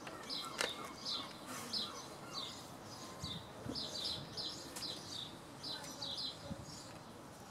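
A small bird chirping repeatedly: short, high chirps at about two a second, with a few faint clicks among them.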